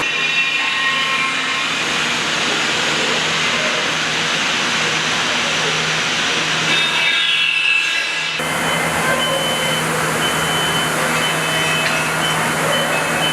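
Machinery noise on a factory floor: a steady hiss with a low hum under it, changing abruptly about eight seconds in.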